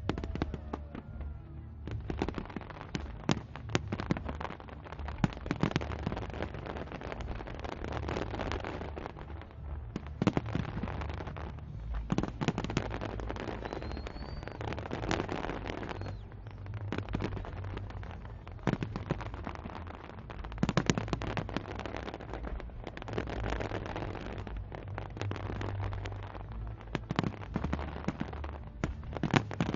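Fireworks going off in a long continuous display: a dense crackle under a steady low rumble, with frequent sharp bangs.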